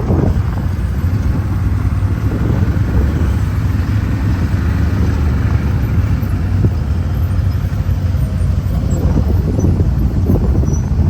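Off-road vehicle engine running steadily under way, with a heavy low rumble.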